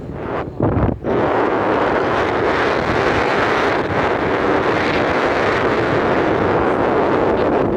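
Steady wind noise rushing over the microphone, mixed with the rumble of a moving vehicle on the road, with a couple of short dips in the first second.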